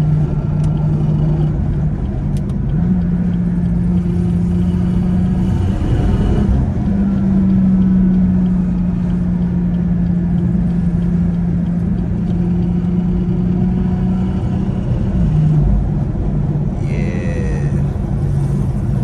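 BMW 440i's turbocharged B58 inline-six running at a steady cruise, heard from inside the cabin as a constant drone over road rumble. Its pitch rises a little about three seconds in and settles back down near the end.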